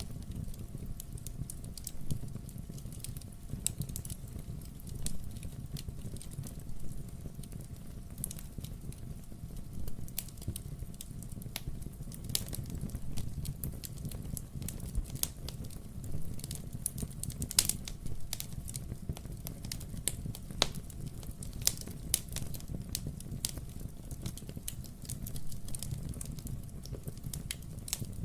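Wood fire burning in a fireplace: a steady low rumble of flame with irregular crackles and sharp pops from the burning logs, a few pops louder than the rest.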